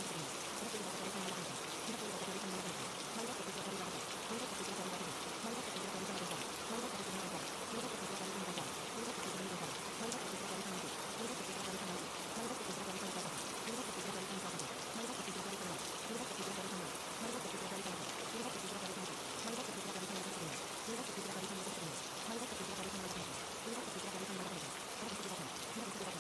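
Steady rain with an even hiss, with a faint murmur of several layered, overlapping voices underneath.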